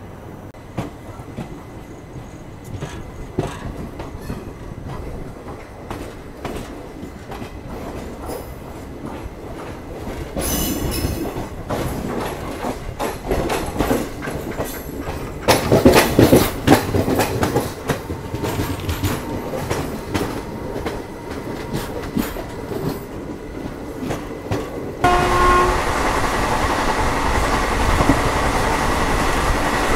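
Passenger express train running on the line, heard from on board as it gathers pace after a station halt: the wheels click and knock over rail joints, growing louder, loudest about halfway through. About five seconds before the end the running noise jumps suddenly to a louder, steady rush.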